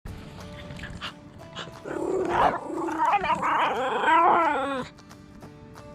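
A dog growling and whining in a drawn-out, wavering vocalisation from about two seconds in until about five seconds, over quieter background music.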